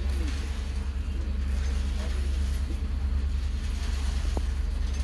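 Steady low rumble of a train moving past on the track, with a faint click about four seconds in.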